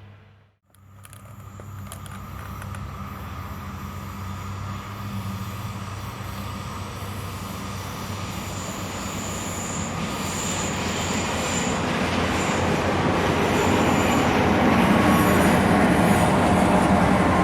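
Train approaching along the track, growing steadily louder, with a steady low hum and intermittent high-pitched wheel squeal. It begins after a brief dropout.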